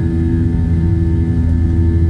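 Airliner engines running steadily after takeoff: a loud, unchanging low drone with a few steady higher tones.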